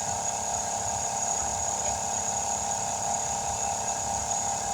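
Steady hum of running machinery with a low rumble underneath.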